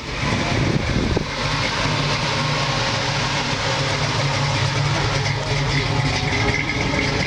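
A car engine running steadily at an even speed.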